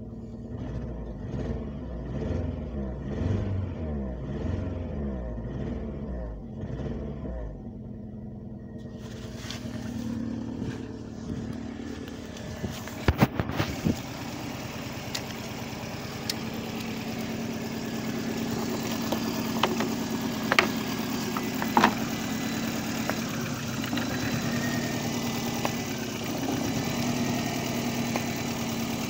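Lada Priora's four-cylinder petrol engine idling roughly with a wavering pitch, misfiring on one cylinder just after a piston-ring decoking treatment. It is heard first from inside the cabin, then up close in the open engine bay, with a few sharp clicks around the middle.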